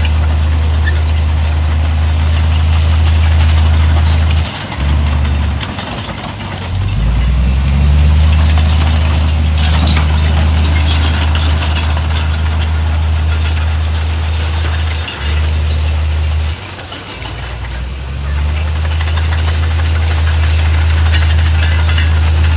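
Heavy diesel engine of earthmoving machinery running with a strong, deep rumble. The rumble drops off briefly about 4–7 s in and again about 15–18 s in, then picks back up.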